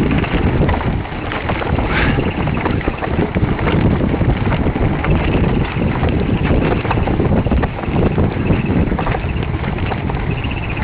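Wind rushing over the microphone during a fast mountain bike descent, with the bike rattling and clattering over rough ground.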